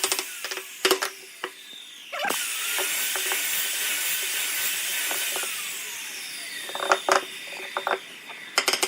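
Rapid mechanical clicking like a ratchet, then a small power tool running for about three seconds with a steady whine and winding down, with a few loose clicks before rapid clicking resumes near the end.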